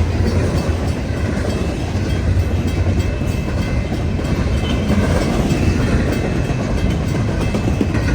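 Freight train cars rolling past a level crossing: steady, loud wheel-on-rail noise with a strong low hum, unbroken through the whole stretch.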